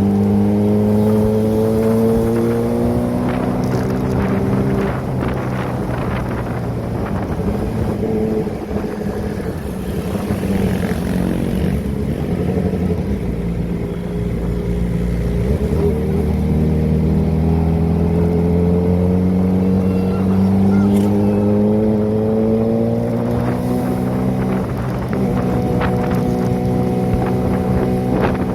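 Kawasaki ZX-25R's inline-four engine through a Prospeed aftermarket exhaust while riding: the engine note falls away over the first few seconds, gives way to a rough rumble with little clear note for about ten seconds, then climbs steadily for several seconds, dips briefly near the end as it shifts gear, and settles into a steady run.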